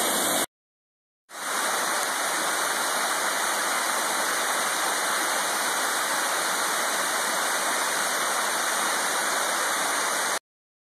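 Waterfall rushing with a steady roar of falling water. It drops out for under a second about half a second in, comes back, then cuts off abruptly near the end.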